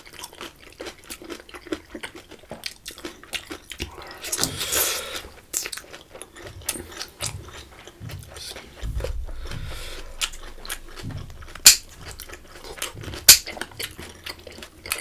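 Close-miked chewing of a spring roll: many small wet mouth clicks and smacks, with a brief rustling swish about four seconds in. Two sharp clicks stand out near the end.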